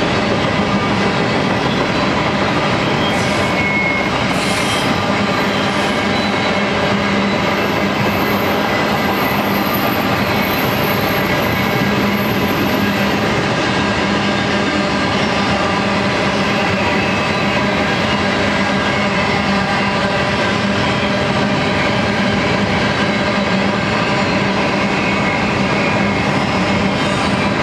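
A double-stack intermodal freight train's container well cars rolling past, a steady, unbroken noise of steel wheels on the rails.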